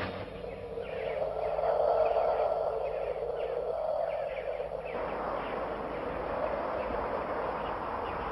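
A bird calling in a series of short, falling chirps, about two a second, over a steady background noise; the calls stop about five seconds in.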